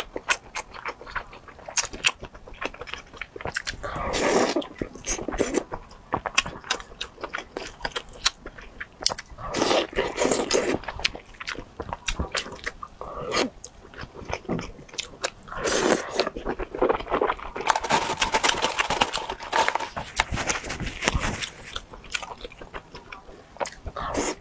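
Close-miked biting and chewing of soft oden skewers (fried tofu and fish cake in spicy sauce): wet mouth smacks and clicks, rising in several louder spells of chewing.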